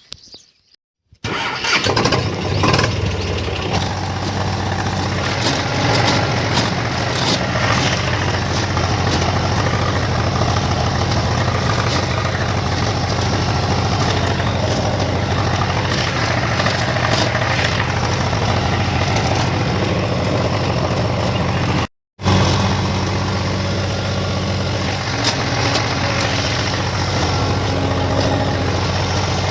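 Tractor engine running steadily, starting about a second in after a moment of silence, with a brief dropout about three-quarters of the way through.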